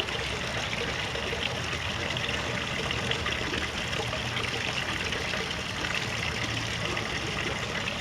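Steady trickling, rushing water, an even hiss with no breaks.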